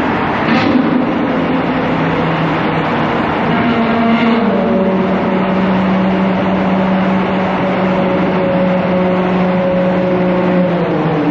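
Ferrari 812 Superfast's naturally aspirated V12, with a Novitec straight-pipe exhaust, running at a steady cruise and heard from a car following it. The engine note changes about four seconds in, then holds steady, and eases slightly near the end.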